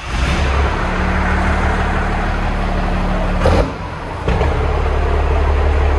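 12-valve Cummins inline-six diesel running through a 7-inch cab-back exhaust, a loud deep steady drone. It drops away briefly about three and a half seconds in, then picks up again.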